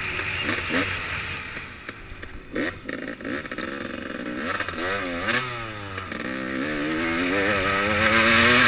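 KTM 300XC two-stroke dirt bike engine on the track, the throttle rolled off and blipped a couple of seconds in, the revs wavering up and down, then building steadily and louder as it accelerates near the end.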